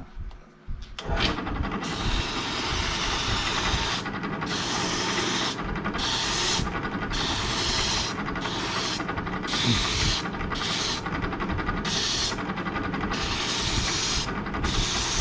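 A power sander starts up about a second in and runs steadily. A wooden spoon is pressed against the abrasive again and again to shape it, so a scraping hiss comes and goes every second or so over the motor's hum.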